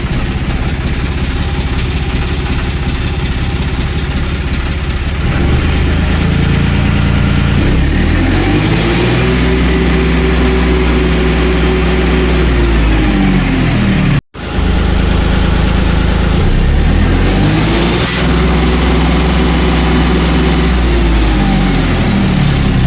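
John Deere 5305 tractor's three-cylinder diesel engine idling, revved up twice and held at higher speed for several seconds each time before dropping back to idle.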